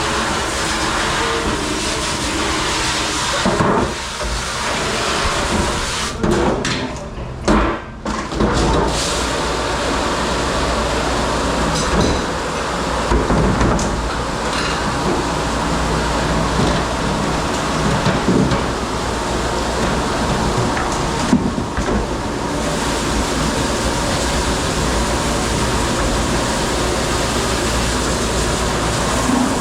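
Steady running noise of a commercial dish room, with the dish machine spraying and humming, and dishes and racks clattering now and then.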